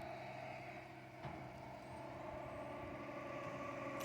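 A vehicle engine running steadily, growing slightly louder toward the end, with a single click about a second in.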